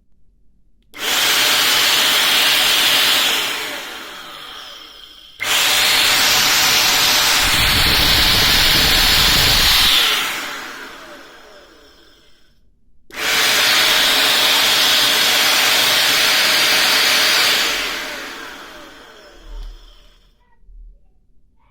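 Vacuum cleaner motor, its bearings newly replaced, test-run: switched on three times with a sudden start, running at full speed for a few seconds each time, then switched off and spinning down.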